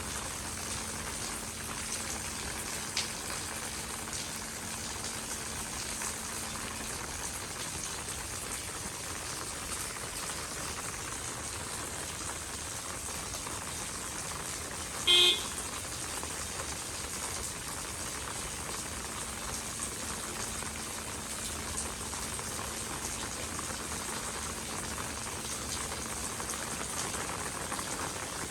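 Steady rain falling on street pavement, an even patter throughout. A short beep sounds about halfway through and is the loudest moment.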